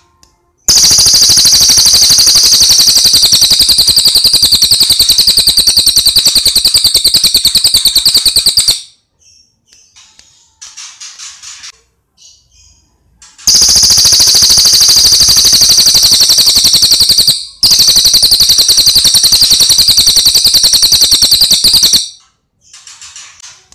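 Cililin (lesser racket-tailed drongo) singing: three long, loud, very fast rattling trills of several seconds each, high-pitched, with soft short chirps in the gaps between them.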